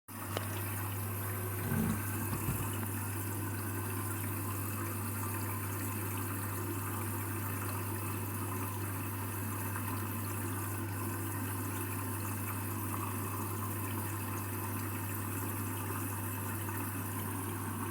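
Candy washing machine filling with water for the first rinse of a full bedding load: a steady rush of inflowing water under a steady low hum. Two short low thumps about two seconds in.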